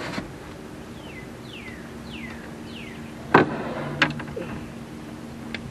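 A bird gives four short whistled calls, each sliding downward in pitch, over the steady hum of an electric trolling motor. A sharp knock on the boat comes about three and a half seconds in, and a lighter one half a second later; the first knock is the loudest sound.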